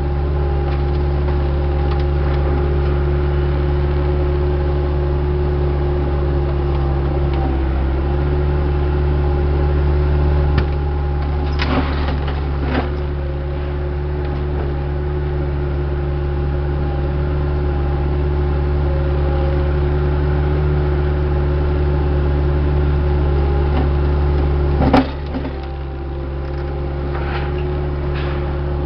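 Diesel engine of heavy earthmoving equipment running steadily under work, with a couple of sharp metallic knocks about twelve seconds in and a louder clank a little before the end.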